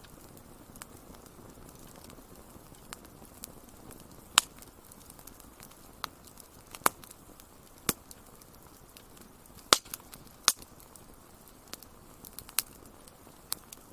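Wood fire crackling: irregular sharp pops and snaps, the loudest about four seconds in and twice around ten seconds in, over a soft steady hiss of flames.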